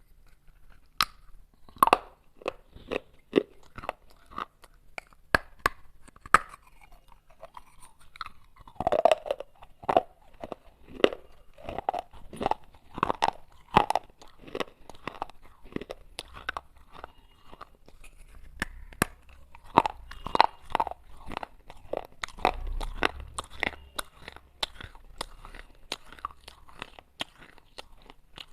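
Baked clay pot pieces being bitten and chewed: a run of sharp, irregular crunches, about one or two a second, some much louder than others.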